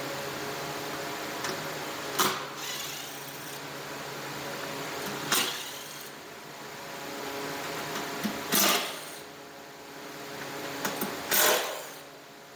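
A steady motor hum with four short, loud hissing bursts about three seconds apart.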